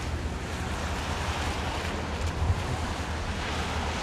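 Freight train rolling slowly past, a steady low rumble and rushing noise with wind on the microphone.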